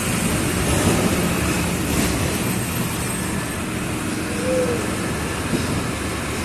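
Mercedes-Benz OF 1722M city bus's diesel engine running as the bus drives, a steady rumble mixed with road noise, with a brief faint squeal partway through.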